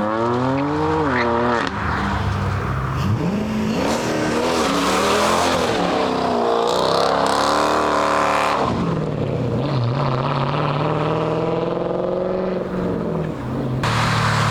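Car engines revving and accelerating, the pitch climbing and falling several times, with a steadier lower engine note for a few seconds near the end.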